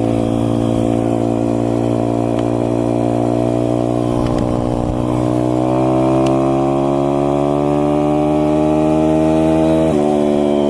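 SSR 160 pit bike's single-cylinder four-stroke engine running under way, revs climbing steadily over several seconds, then dropping sharply near the end.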